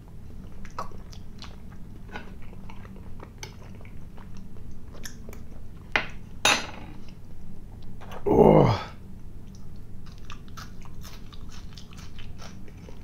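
A person chewing food close to the microphone: wet clicks and smacks throughout, with a couple of sharper bites about six seconds in. About eight and a half seconds in comes a short vocal sound that falls in pitch.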